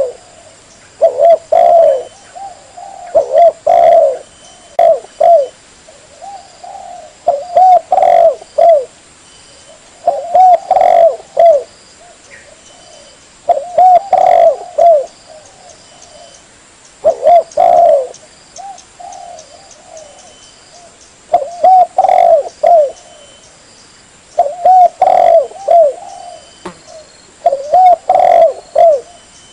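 Spotted dove cooing: repeated phrases of a few rounded coos, a new phrase about every two to three seconds, used as a hunter's lure call.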